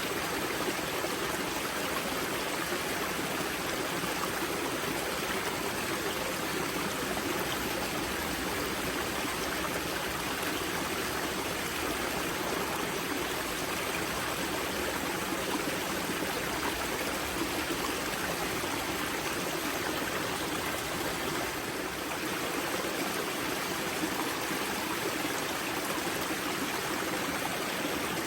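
Spring-fed mountain river water flowing and splashing over rocks at its wellhead, a steady, even rush.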